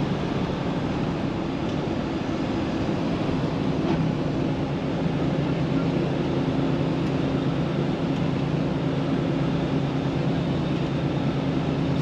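Semi-truck's diesel engine running steadily at highway cruising speed, with road and tyre noise, heard from inside the cab.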